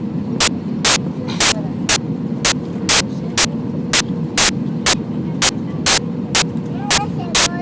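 Airbus A319 cabin noise: a steady low rumble from the airliner in flight. Loud sharp clicks cut across it at an even rate of about two a second.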